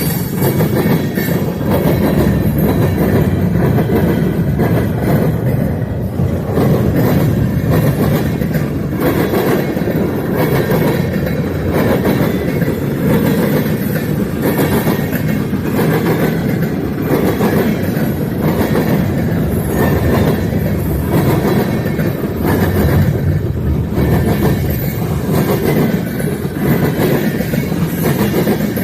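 Freight train cars rolling past on the rails, a loud steady rumble that goes on unbroken.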